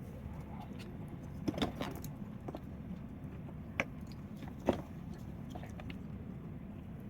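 Wood fire crackling, with scattered sharp pops, the loudest about one and a half, four and nearly five seconds in, over a steady low background rumble.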